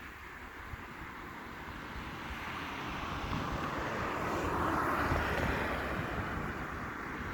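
A passing vehicle: a rush of noise that builds to a peak about five seconds in and then eases off, with low wind rumble on the microphone underneath.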